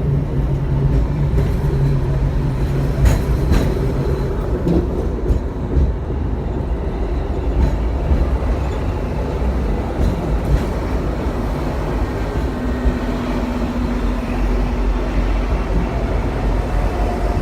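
Hong Kong double-decker electric tram running along its rails, heard from on board: a steady low rumble and rattle, with scattered sharp clicks from the wheels and running gear.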